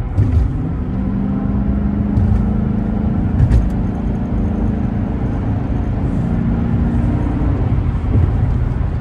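2012 Dodge Charger R/T's 5.7-litre HEMI V8 on its stock exhaust, heard from inside the cabin during a hard pull from about 50 mph. After a thump at the start, the engine note climbs over the first second, holds steady, and eases off near the end.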